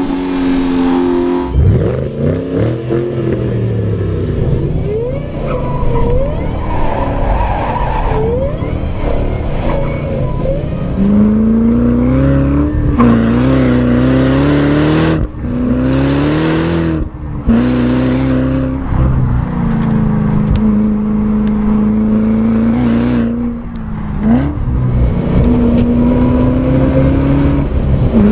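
High-performance car engine revving and accelerating hard, its pitch climbing and dropping again and again through the revs and gear changes, breaking off sharply a few times.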